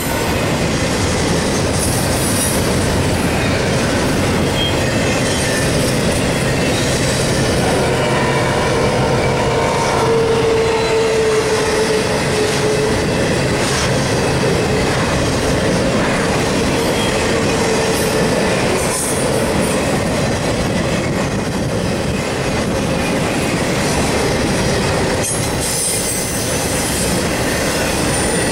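Intermodal freight cars loaded with double-stack containers and highway trailers rolling past: a steady, loud rumble of steel wheels on rail with occasional sharp clanks. A wheel squeal rises out of it about ten seconds in, with a fainter one later.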